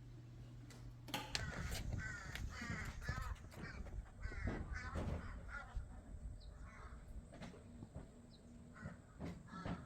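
Harsh cawing bird calls, several in a row, mixed with scattered clicks and knocks, starting about a second in.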